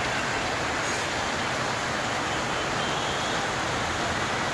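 Heavy monsoon rain pouring in a steady hiss, with road traffic running beneath it.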